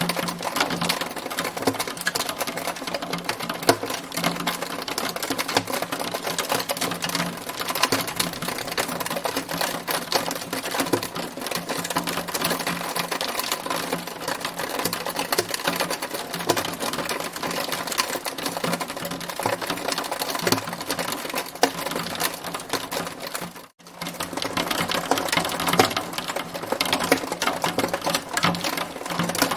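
Hail pelting down in a dense, continuous rattle of rapid clicks. The sound cuts out briefly about four-fifths of the way in, then resumes.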